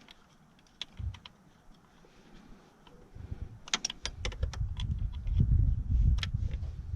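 Scattered light clicks and taps of hand tools and loose parts being handled while working on an engine, with a low rumble building from about three seconds in.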